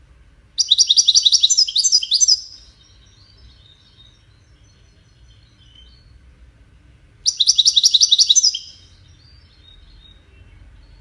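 European goldfinch singing in the Moroccan 'widani' style, a tutor song for young goldfinches. Two phrases, each a quick run of high repeated notes lasting about two seconds, trail into softer twittering; the second comes about seven seconds in.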